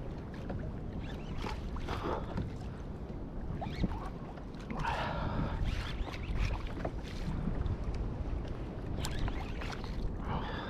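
Wind on the microphone and water moving around a fishing kayak at sea, a steady low rumble. A short pitched sound comes about five seconds in, and again near the end.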